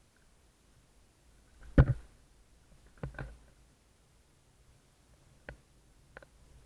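A few sharp knocks in a small room: a loud one about two seconds in, a quick double knock a second later, and two faint clicks near the end.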